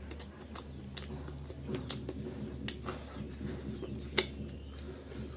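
Close-up eating sounds: wet lip-smacking and chewing clicks as meat is bitten and gnawed off a chicken leg held in the fingers, with one sharper click about four seconds in. A steady low hum runs underneath.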